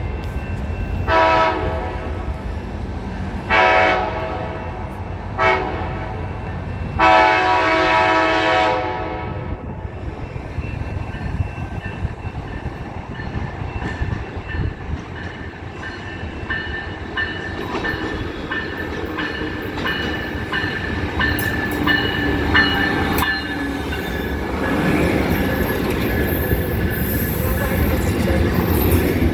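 Amtrak diesel locomotive horn sounding four blasts (long, long, short, long), the standard grade-crossing warning. Then the train rumbles in over the rails, with clicking wheels and high-pitched wheel or brake squeals growing near the end.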